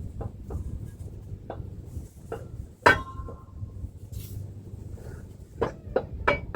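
Metal hand tools clinking and knocking against metal parts, about half a dozen separate strikes. The loudest comes about three seconds in and rings briefly, and several more clinks come close together near the end.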